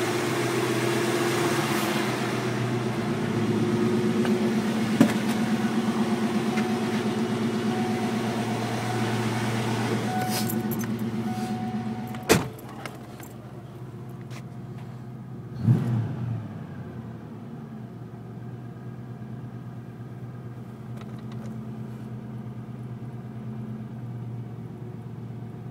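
Ford Mustang engine idling steadily at a raised cold-engine idle, above the 750–800 rpm it settles to once warm. About halfway through comes a sharp knock and a few seconds later a thump, after which the engine sounds quieter and more distant.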